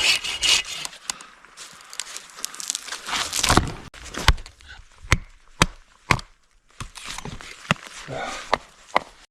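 Pieces of firewood being handled: rustling and scuffing, then a run of sharp wooden knocks about half a second apart through the middle, and fainter knocks near the end.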